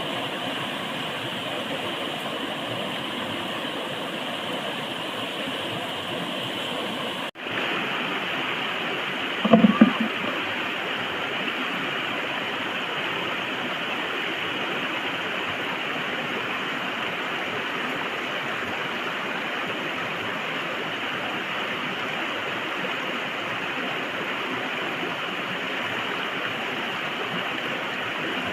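Steady rush of running water. There is a brief dropout about a third of the way in, and a short louder sound a couple of seconds after it.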